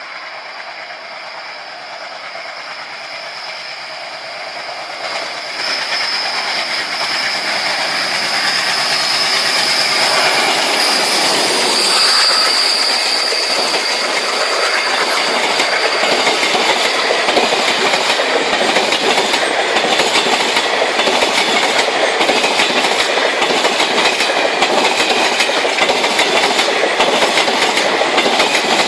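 Indian Railways train running on the track, its wheels clattering over the rail joints in an even clickety-clack. It grows louder over the first ten seconds or so, with a thin high whine in the first half, then holds steady.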